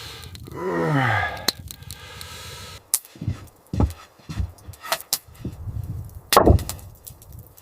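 Irregular knocks of blows on wood, about a dozen spread over the second half, with one heavier knock near the end. Before them comes a short pitched sound that slides downward.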